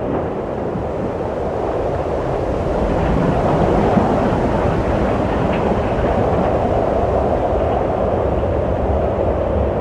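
Wind blowing steadily as a low rushing noise, swelling slightly a few seconds in.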